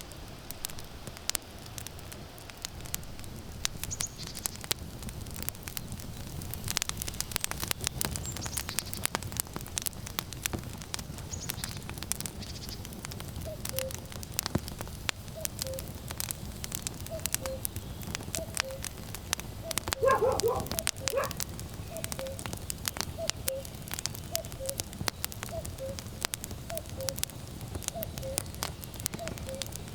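Firewood crackling and popping steadily. From about halfway through, a common cuckoo repeats its falling two-note call about once a second. About two-thirds in comes a short dog bark, the loudest sound, and a few faint high bird chirps come in the first half.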